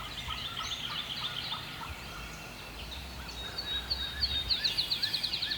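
Wild birds calling in the early-morning woods: repeated short, high chirps, then a rapid high trill about four seconds in.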